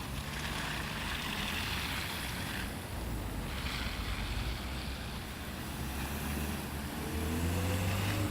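Tram running on the rails with a steady low rumble and spells of hiss. About seven seconds in, a rising whine sets in as its electric traction motors speed up.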